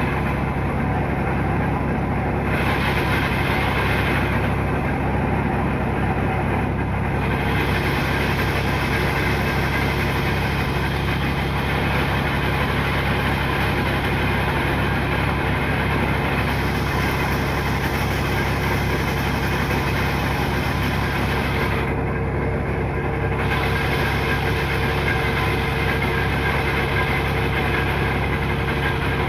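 Diesel engine of piling machinery running steadily.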